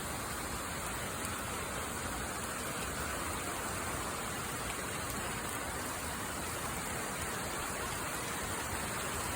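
Steady heavy rain pouring down, a dense even hiss without pauses.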